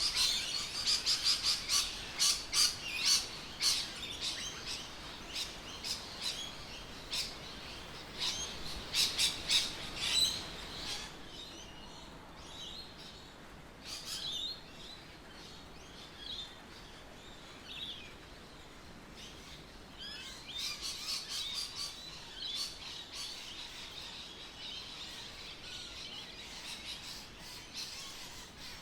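Birds chirping: a quick run of short, high notes for the first ten seconds or so, then only scattered calls, then another stretch of chirping in the last third.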